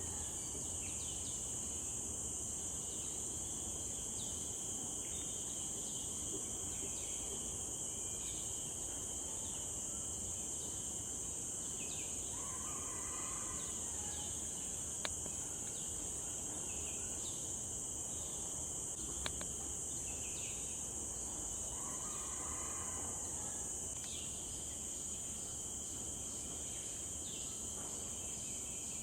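A steady, high-pitched chorus of insects, with short falling chirps scattered throughout and two sharp clicks, about 15 and 19 seconds in.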